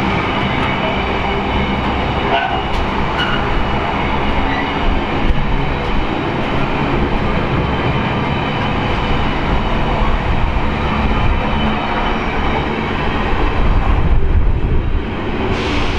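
A train running past at close range: a loud, steady rumble of wheels on rail, with scattered clicks.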